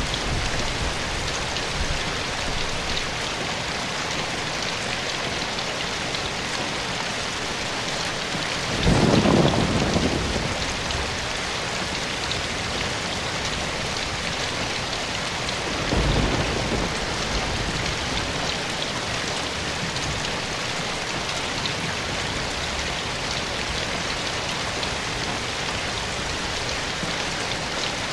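Steady rain falling, a continuous even hiss, with two brief low rumbles: a louder one about nine seconds in and a shorter one about sixteen seconds in.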